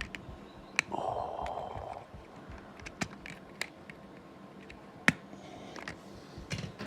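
Lego plastic parts being handled: a few separate sharp clicks spread through, with a short scraping rustle about a second in.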